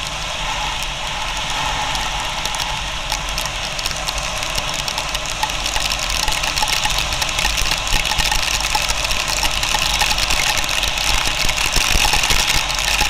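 Motorcycle engine running on a rough, potholed road, picked up by an action camera's microphone, with a constant noisy rush and many small knocks and rattles.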